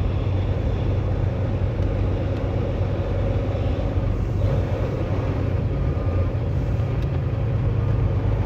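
Semi truck's diesel engine running steadily at low speed, heard inside the cab as a continuous low drone.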